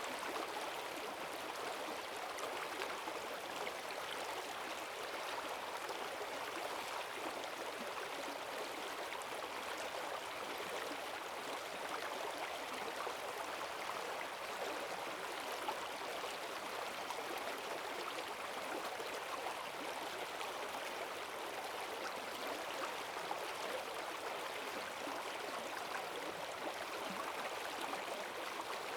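Forest stream running high after heavy rain: a steady rushing of water with a strong current, an even noise without breaks.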